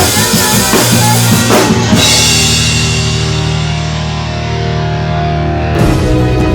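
Rock music with a full drum kit pounding for about two seconds, ending on a crash and a held chord that rings out and slowly fades. A different piece of music cuts in suddenly near the end.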